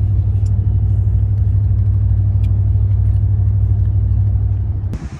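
Steady low rumble of a car on the move, cutting off suddenly near the end.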